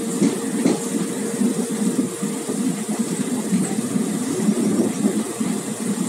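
Running noise of a moving passenger train heard from its coach doorway: the wheels rumble steadily on the track, with a steady hum under it.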